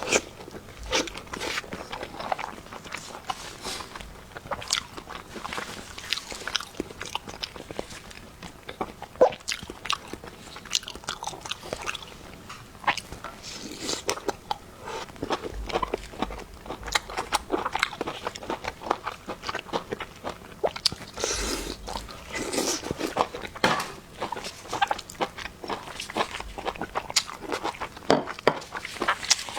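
Close-miked eating: a person biting and chewing food, with many irregular smacks and crunches.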